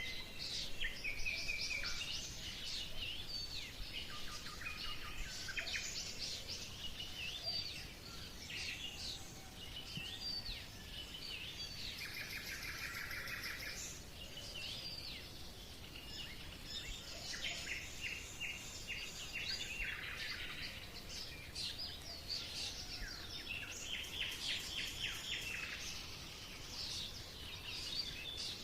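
Several birds singing together in a dense chorus of quick chirps and trills, over a faint steady background hiss.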